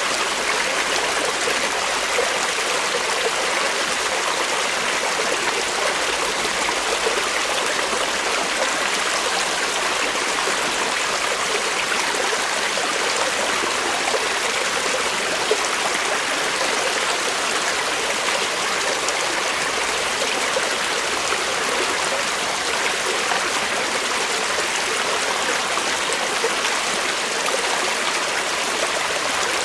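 Creek water flowing steadily over rocks, a constant rushing with small splashes and gurgles.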